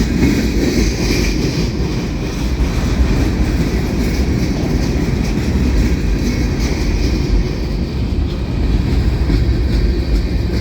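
Freight cars of a Union Pacific manifest train rolling past, a steady rumble of steel wheels on rail.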